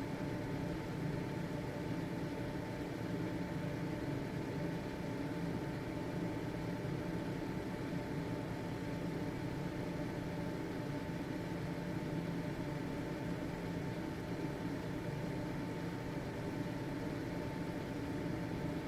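Household ventilation fan (exhaust fan) running steadily, an even whooshing hum with a faint steady motor tone.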